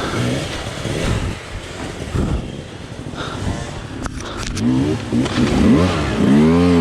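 Dirt bike engine heard from onboard, running at low revs, then revving up and down several times from about four and a half seconds in. A few sharp knocks come just before the revving.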